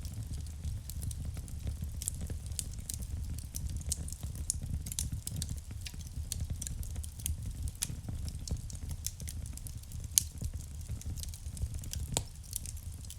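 Wood fire burning in a fireplace: a steady low rumble of the flames with frequent irregular crackles and pops from the burning logs, one sharper pop about ten seconds in.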